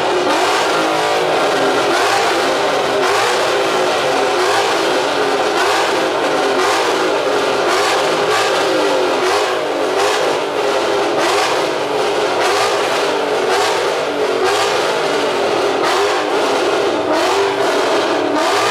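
Car engine held at high revs, its pitch wavering up and down continuously as the throttle is worked, with a dense hiss over it, as from a car doing donuts.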